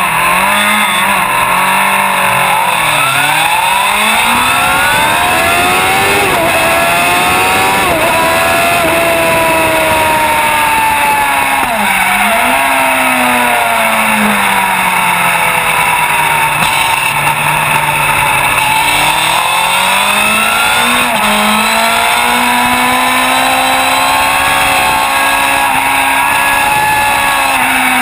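Racing sport bike's engine heard from on board at full throttle, its pitch climbing and then dropping sharply at each upshift. About a third of the way in the revs fall away for a corner, then climb through the gears again, all over a constant hiss.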